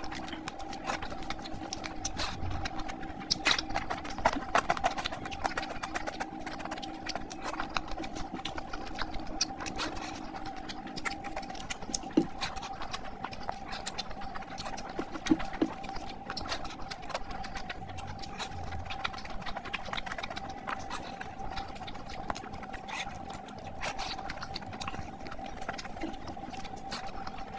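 Close-miked wet chewing and lip-smacking of a person eating meat curry and rice by hand: many small smacks and clicks, with a few sharper ones, over a steady faint background tone.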